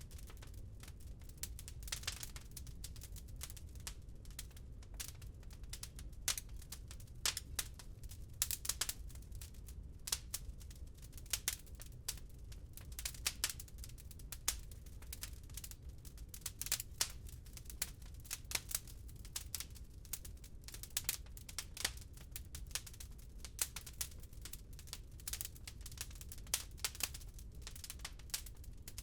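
Wood fire crackling in a fireplace: many irregular sharp pops and snaps, several a second, over a low steady rumble.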